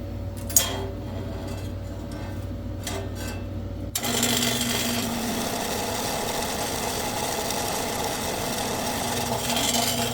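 A click, then about four seconds in a metal-cutting power saw starts and runs steadily with a loud, even whir.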